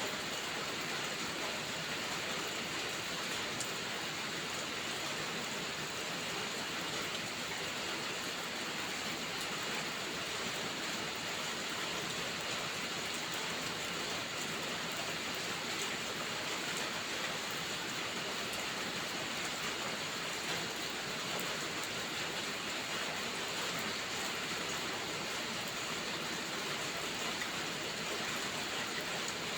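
Steady rainfall, an even unbroken hiss with a few faint ticks of drops.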